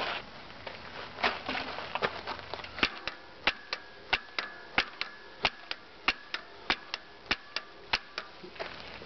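RockShox Pike suspension fork clunking: a run of sharp knocks, about three a second, some with a short ring, after a few softer knocks.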